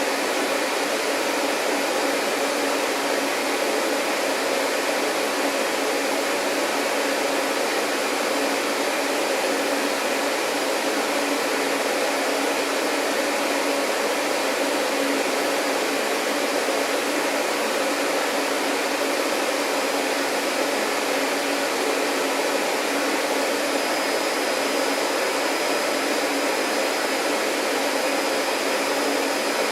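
Vacuum cleaner running steadily with an even, unbroken drone. A faint high whine joins it about three-quarters of the way through.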